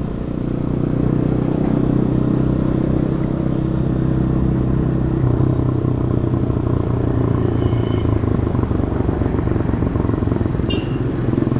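Demak DTM 150 motorcycle's single-cylinder engine running through its stock exhaust while riding, with the engine note shifting in pitch about five seconds in.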